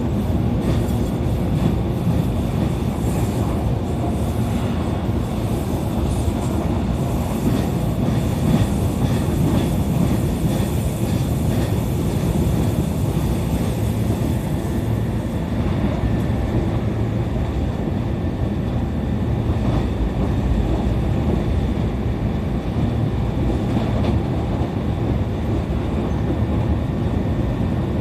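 E531 series electric train running between stations, heard from inside the car: a steady rumble of wheels on rails and running gear.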